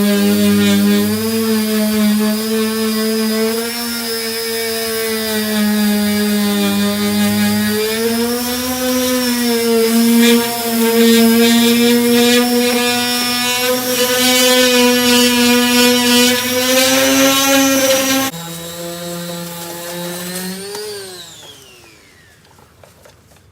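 Power sander with a 240-grit disc sanding body filler: a steady motor whine whose pitch dips and wavers as it is pressed against the surface. Near the end it is switched off and its pitch falls as it spins down.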